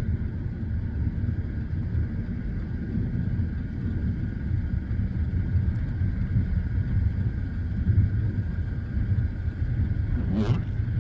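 Steady low rumble of an idling vehicle engine, with a brief faint voice-like sound near the end.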